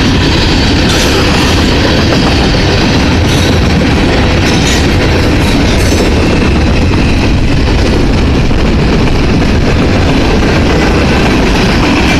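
Train cars rolling past close by: a loud, steady rumble with the wheels clacking over the rail joints.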